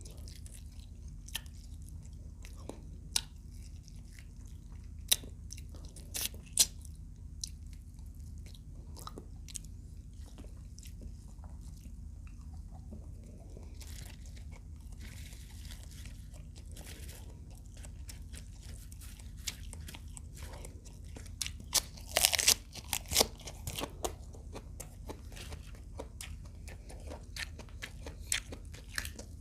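Close-up eating sounds: biting into and chewing crispy fried adobo quail, with scattered sharp crunches and a run of loud crunching about two-thirds of the way through. A steady low hum sits underneath.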